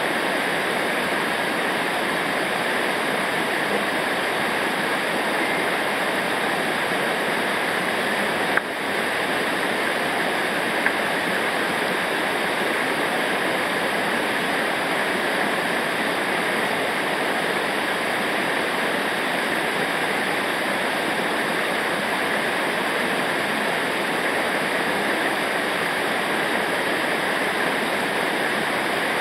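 Steady rushing of river water over rapids or a waterfall, with a brief click about a third of the way in.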